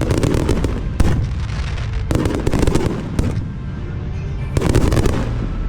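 Fireworks display: rapid salvos of bangs and crackling in several clusters, the last a little before the end. Music plays underneath and comes through in the quieter gaps.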